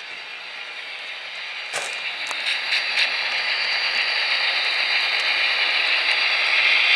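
HO scale model diesel locomotive running on the layout, its sound-decoder engine sound growing louder as the train comes closer, with a couple of sharp clicks about two seconds in.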